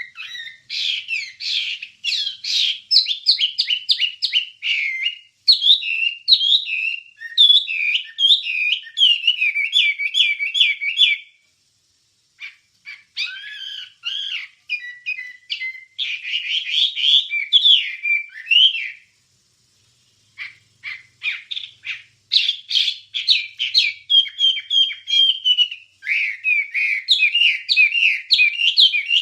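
A Wambie bird singing a fast chattering song: long runs of quick, repeated whistled and sweeping notes, broken by two short pauses.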